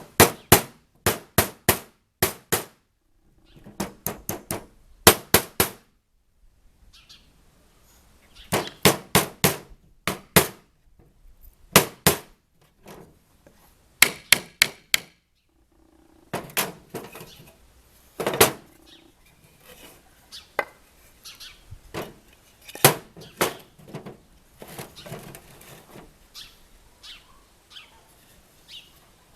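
Hammer driving nails into wood: sharp strikes in quick runs of three to five, with short pauses between the runs.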